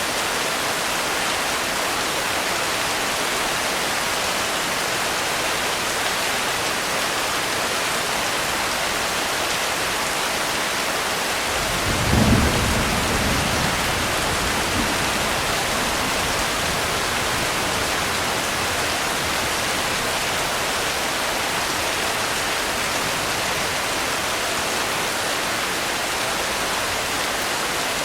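Steady heavy rain falling without let-up. About twelve seconds in, one deep roll of thunder rumbles and fades over a few seconds.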